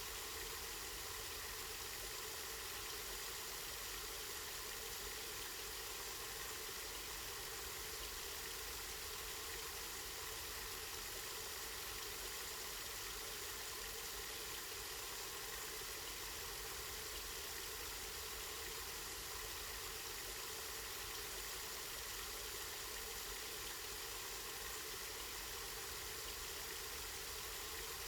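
Water from a spring running in a steady, unbroken hiss.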